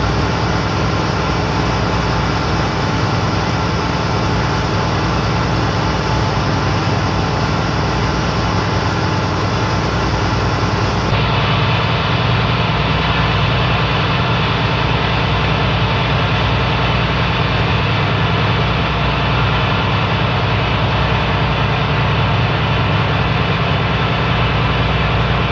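Ship's engines and machinery running with a loud, steady drone, a deep hum with several fixed tones under a hiss. About eleven seconds in the highest part of the hiss drops away abruptly.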